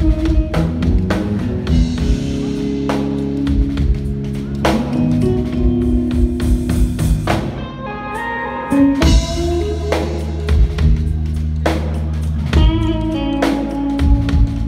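Live band jam: electric guitar playing melodic lines over bass and a drum kit.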